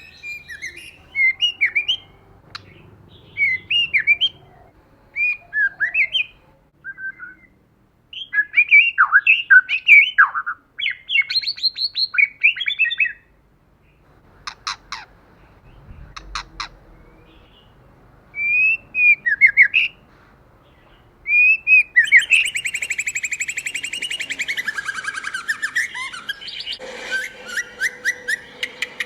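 White-rumped shama singing: a string of short whistled phrases with quick up-and-down glides, a few sharp clicks around the middle, and then a long, fast, harsh chattering passage near the end.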